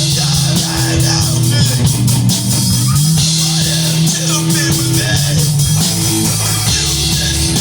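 A rock band playing an instrumental passage: guitar and bass notes held over a steady drum-kit beat, with no singing.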